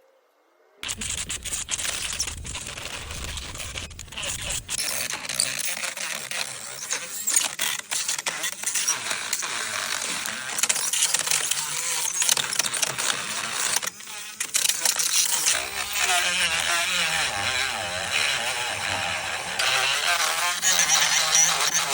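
Miniature rotary tool with a small sanding head grinding against a dry tree root, sped up, so the motor whine and scraping come as a dense, fast-changing rasp with many ticks. It starts about a second in.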